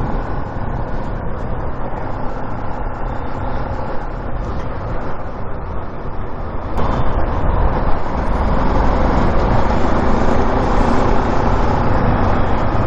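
Motorcycle on the move: engine, wind and road noise, getting louder about seven seconds in.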